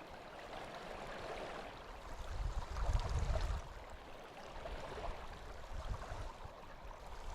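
Steady rush of a flowing river, with a low rumble swelling about two to three and a half seconds in.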